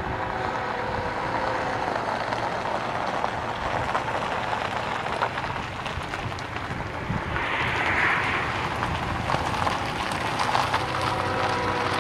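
BNSF coal train's diesel locomotives approaching in the distance, a steady rumble that slowly grows louder. A chord of steady horn tones sounds briefly near the start and again near the end.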